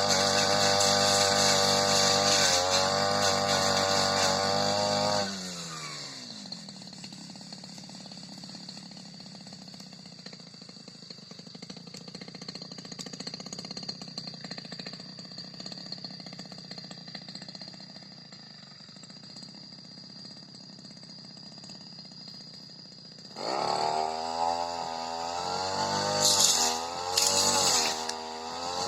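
Supra SPR328 brush cutter engine running at high revs, then winding down about five seconds in to a quiet idle. Near the end it is revved up again, its pitch rising and falling.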